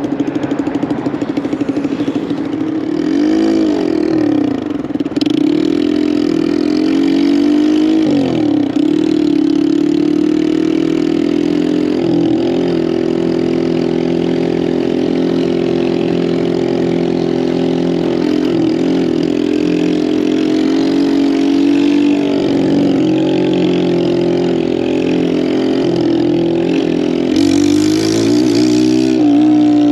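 Lifan KP200 200cc motorcycle engine running under way: its pitch dips and climbs twice in the first ten seconds as it shifts up through the gears, then holds steady at cruising speed. Near the end the engine pitch rises again with a brief hiss.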